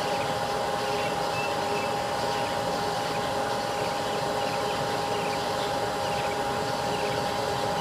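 Steady electrical hum with a constant tone from a refrigerator running on a solar inverter. Faint short chirps repeat about every half second over it.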